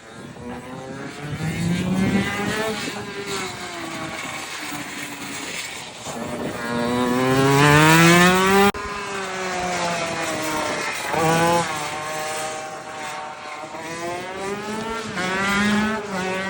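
Honda NSR50 mini bike with a Honda CR85 two-stroke single-cylinder engine revving hard on track, its pitch climbing under acceleration and falling again several times. The loudest climb is cut off abruptly about nine seconds in, then the engine builds again.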